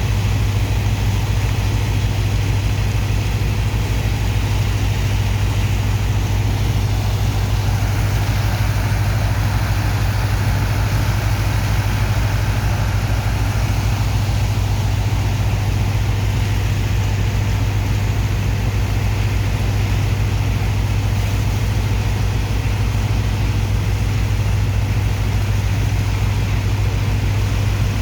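Large diesel engine of a sand dredger running steadily, a deep even hum with a fast low pulsing beneath it.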